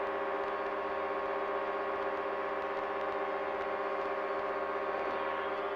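Small airplane's engine and propeller droning steadily, an even, unchanging hum of several tones.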